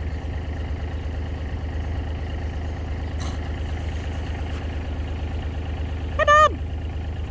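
Steady low hum of an idling engine. About six seconds in, a goat gives one short, wavering bleat that drops in pitch at the end.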